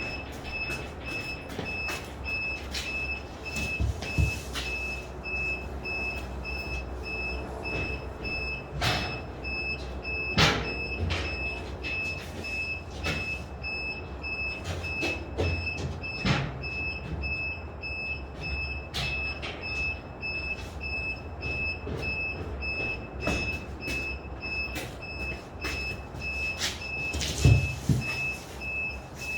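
Construction-site noise: a machine's warning beeper sounding in rapid, regular beeps throughout, over a steady low engine rumble, with scattered knocks and bangs, the loudest near the end.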